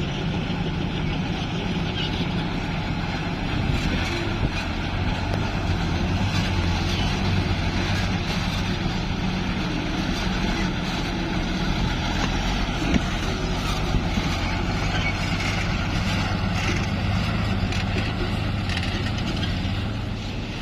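Heavily loaded dump truck's engine running steadily, a low hum that holds the same pitch throughout.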